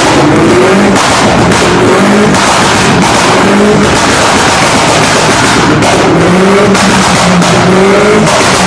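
Car engine revving hard through a loud aftermarket Warex exhaust. The engine note climbs in pitch several times over and the revs are held high.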